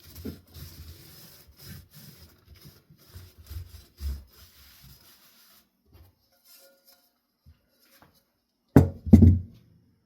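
Paper towel rubbing in short, uneven strokes over a ceiling fan's metal part for the first half, then two loud knocks close together near the end.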